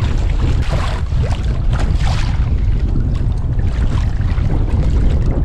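Strong wind buffeting the microphone as a steady low rumble, with choppy sea water splashing and slapping around a kayak.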